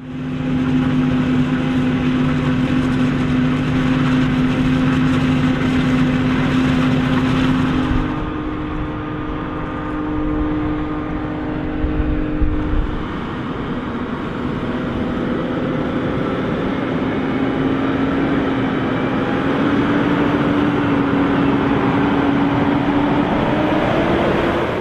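Heavy farm machinery engines running loud and steady during corn chopping. The engine note changes abruptly about eight seconds in, a few thumps follow, and near the end the pitch slowly rises.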